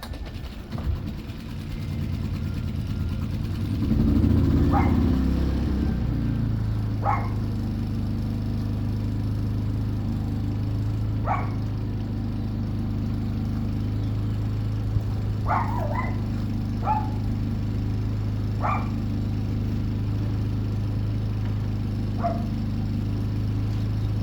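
Portable generator engine running steadily, surging up in level and pitch about four seconds in and then settling back to an even drone. A dog barks about eight times over it.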